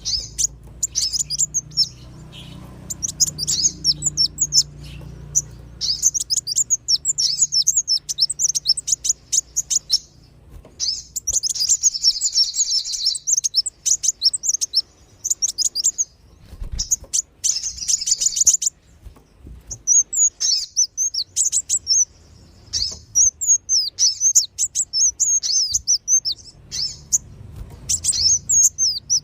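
Bird-lure recording of small birds, kolibri wulung and sogon, sunbirds, chirping rapidly: dense runs of sharp, high chirps broken by a few short pauses.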